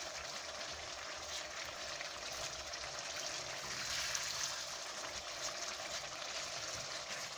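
A tomato and spice curry sizzling steadily in a saucepan on the stove as it is stirred with a silicone spatula.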